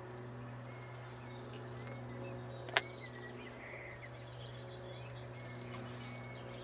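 Quiet outdoor ambience: a few faint bird chirps over a steady low hum, with one sharp click almost three seconds in.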